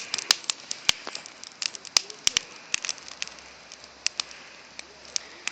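Wood bonfire crackling, with irregular sharp pops and snaps from burning boards. The pops come thickly at first and thin out toward the end.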